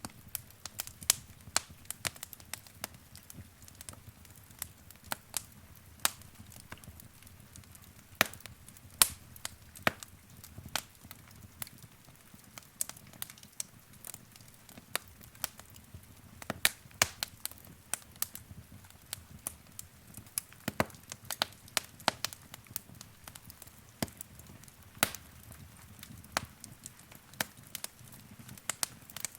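Wood fire crackling in a fireplace: irregular sharp pops and snaps from the burning logs, several a second at times, over a low, soft rumble of the flames.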